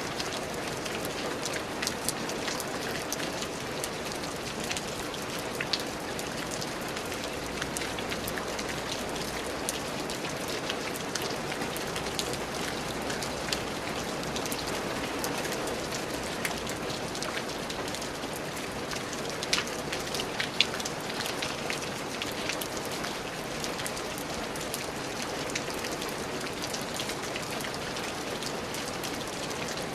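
Steady rain falling, with scattered drops ticking sharply close by and a few louder drop hits about two-thirds of the way through.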